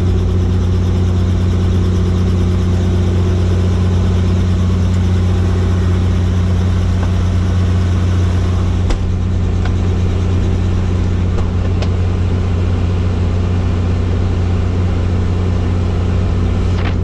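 Helicopter running steadily: an even, loud drone of rotor and engine with a strong low hum, with a few faint clicks about nine to twelve seconds in.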